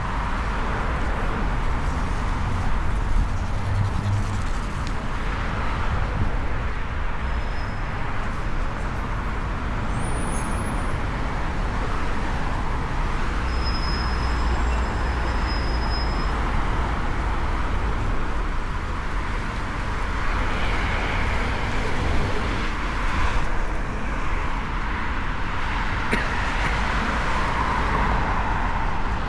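City street traffic: cars passing with steady engine and tyre noise and a low rumble, with a faint brief high squeak about halfway through.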